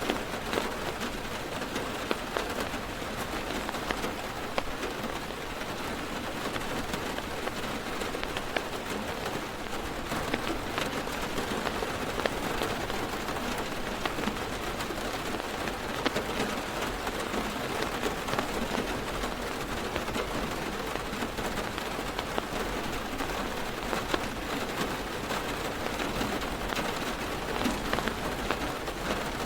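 Heavy rain falling on a car's roof and windows, heard from inside the car: a steady hiss of rain with many separate drop hits ticking through it.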